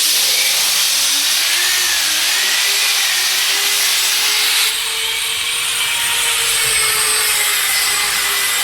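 Floor edge sander running against wooden floorboards, sanding along the edge by the wall: a loud, steady grinding hiss over a motor whine that wavers in pitch. It starts suddenly and drops slightly in level about five seconds in.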